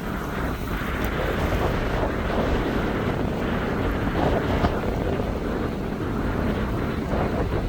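Gusty wind buffeting the microphone, with a steady broad rumble underneath.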